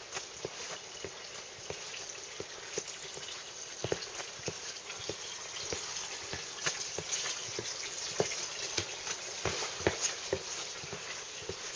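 Footsteps of a hiker walking at a steady pace, about two steps a second, over a steady rushing hiss.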